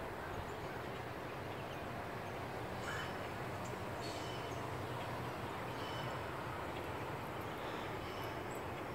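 Steady outdoor background noise with birds calling over it: a short, clear call about three seconds in, another about four seconds in, and a few faint high chirps.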